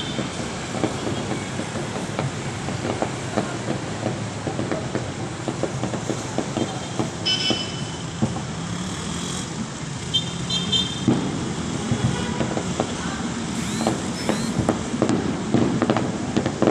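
Fireworks popping and crackling over steady street traffic noise, the pops coming thicker near the end, with two short high toots, about a third of the way in and again a couple of seconds later.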